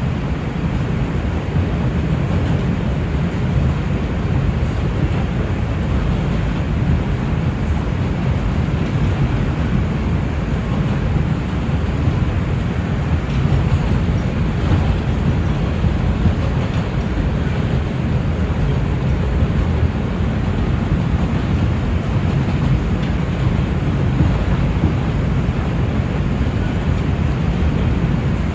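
NYC Subway R142 train running between stations: a steady rumble of wheels on the rails and the running gear, with no clear tones.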